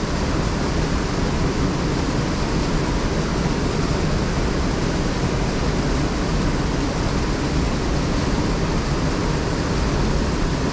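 Steady rushing of fast-flowing river water over rocks, an even continuous roar with no breaks.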